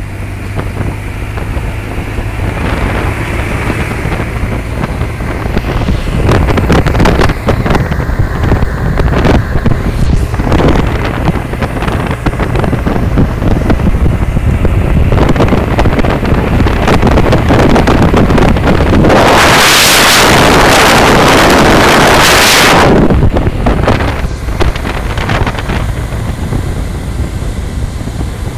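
Wind buffeting the microphone on a moving BMW R 1200 GSA motorcycle, with the bike's boxer-twin engine running as a steady low hum underneath. About two-thirds of the way through, a louder rush of noise lasts about four seconds.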